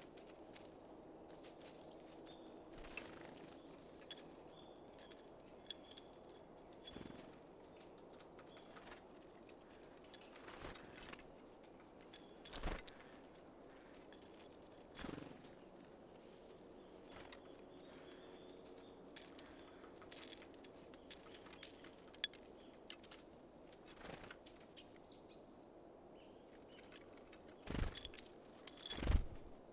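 Small birds at a feeder: scattered taps and knocks of birds landing and pecking at seed, with wingbeats and a few short high chirps. Several louder knocks stand out, two of them near the end.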